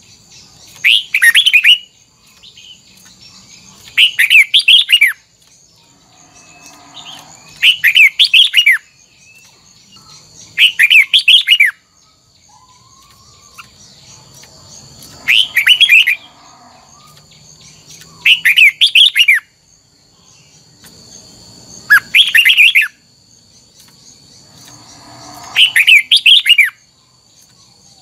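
Red-whiskered bulbul singing its short, warbled phrase over and over, about every three to four seconds, eight times.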